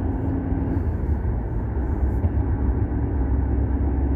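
Volkswagen Golf 6 TSI on the move: a steady low engine and road drone.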